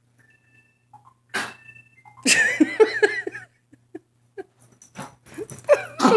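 A dog making vocal and breathy noises as it worries a sock: a short, sharp breathy burst, then a wavering, pitched vocal sound lasting about a second, and more short yelps or grunts near the end.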